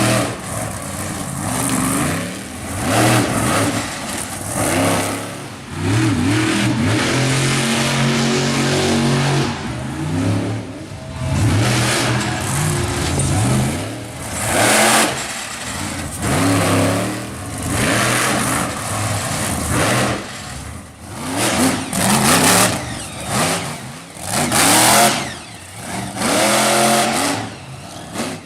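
Monster truck engines revving hard again and again, pitch climbing and dropping with each throttle stab, with bursts of rushing noise between.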